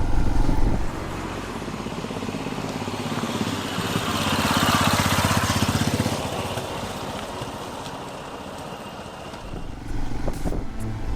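Royal Enfield Himalayan's single-cylinder engine, fitted with a Lextek aftermarket end can, running at low speed with a steady, even beat. A louder rush of noise swells and fades midway.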